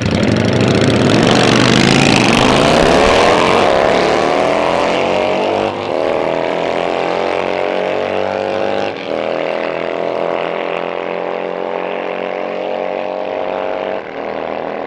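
A drag-racing vehicle launching and accelerating down the strip. It is loudest at the launch, then its engine note climbs steadily, with short breaks at gear changes about six, nine and fourteen seconds in. The sound slowly fades as it pulls away.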